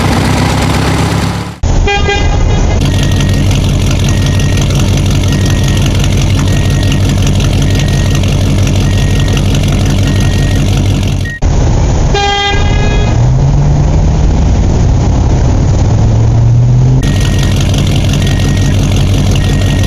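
Heavy vehicle engine running steadily, with a short horn toot at each of two abrupt cuts and a high electronic beep repeating about once a second like a reversing alarm. After the second toot the engine pitch rises and holds for a few seconds, as when revving.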